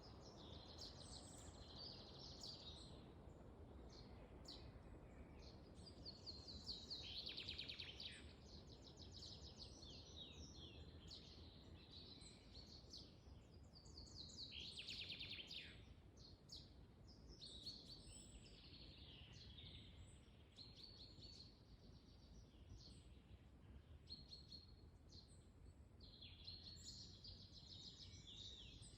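Several songbirds singing and calling in a forest, with quick trills that slide downward in pitch about 7 and 15 seconds in, over a low, steady rush of wind.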